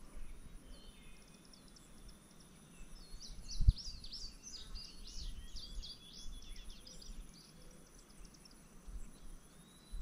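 Birds singing, a quick run of high chirps and trills through the middle seconds, over faint outdoor background noise. A brief low thump comes near four seconds in.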